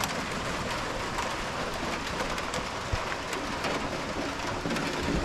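Steady rain falling on a metal roof and running off into the gutter, with scattered drips ticking.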